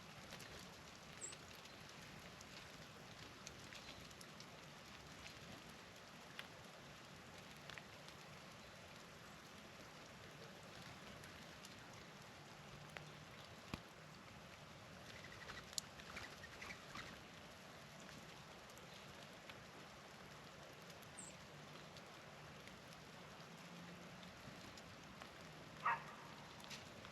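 Faint steady pattering of falling precipitation, with scattered light ticks and a few short, high bird chirps; the loudest tick or chirp comes near the end.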